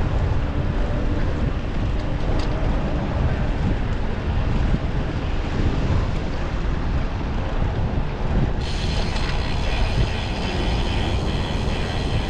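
Wind rushing over the microphone of a road bike rider's camera while riding, over a steady low road rumble. About three-quarters of the way through, faint thin whining tones join in higher up.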